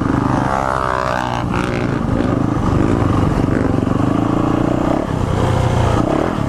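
Small dirt bike engine running steadily under throttle, its pitch rising and falling a little, with a short dip about five seconds in.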